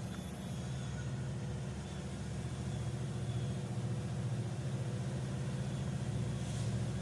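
Norfolk Southern diesel locomotive engine running with a steady low drone as the train moves slowly.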